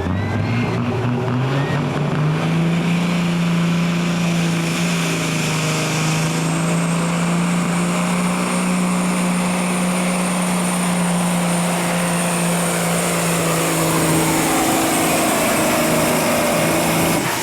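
A pulling vehicle's engine at full throttle during a pull. Its revs climb over the first couple of seconds and then hold a steady high pitch for most of the run. Near the end a whine falls away, and the engine cuts back.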